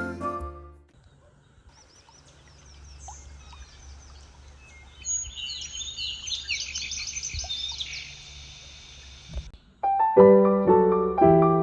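Birds chirping and calling in quick high trills for several seconds, over a low steady background hum. Background piano music fades out at the start, and a new piano piece begins near the end.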